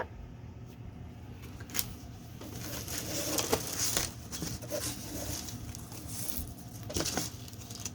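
Packaging being handled: rustling and crinkling that swells for a few seconds in the middle, with a few sharp clicks and taps.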